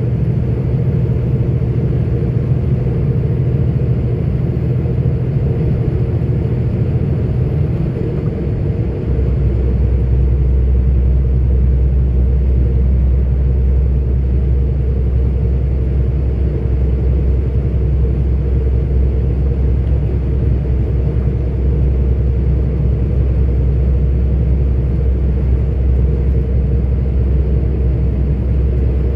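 A 44-ton articulated truck's diesel engine drones steadily with road noise while driving, heard from inside the cab. About nine seconds in, the engine's note drops lower and grows slightly louder, then holds steady.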